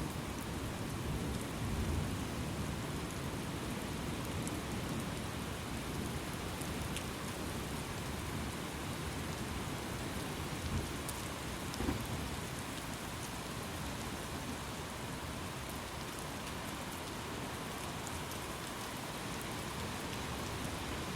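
Thunderstorm: steady rain falling, with low rumbling thunder beneath it and a couple of brief louder swells about halfway through.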